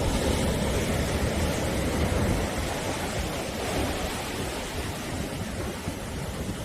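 Sea surf washing onto the shore: a continuous rush of breaking waves with a low rumble, swelling a little in the first couple of seconds and then easing.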